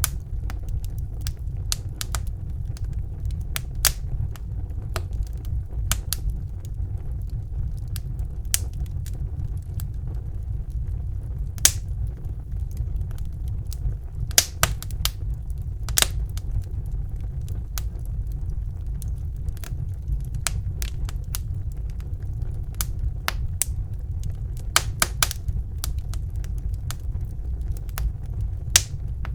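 Wood fire burning in a fireplace: a steady low rumble of the flames with irregular crackles and sharp pops from the burning logs, a few pops standing out louder than the rest.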